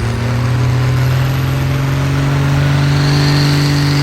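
Pulling tractor's turbo diesel engine revved up and held at steady high revs, with a high whine joining about three seconds in.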